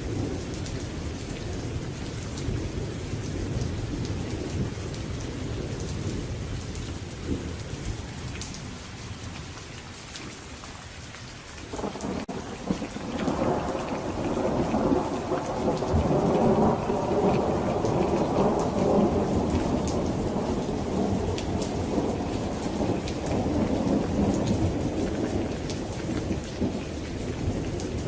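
Steady rain on a surface with scattered drop clicks, under rolling thunder. One rumble dies away over the first ten seconds or so, then a new peal breaks in suddenly about twelve seconds in, swells loud and slowly rolls off toward the end.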